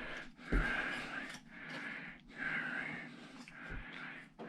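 A man breathing heavily near the microphone, in soft wheezy breaths. There are two dull low thuds, about half a second in and near the end, from parts being handled.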